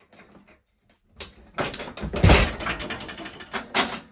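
Metal clattering and scraping as parts of a ride-on mower are worked loose and handled: a run of knocks and rattles, the loudest clank about two seconds in.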